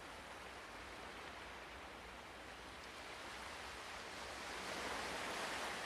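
Ocean surf as a soft, steady wash of waves that slowly swells to a peak about five seconds in, then starts to ease.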